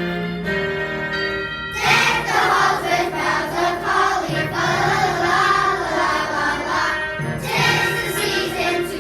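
Held instrumental notes, then a student choir comes in singing about two seconds in, with a short break just after seven seconds before the voices resume.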